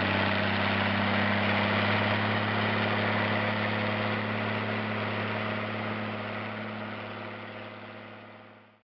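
Zetor 16145 tractor's six-cylinder diesel engine running at a steady pitch, fading out over the last few seconds until it cuts off.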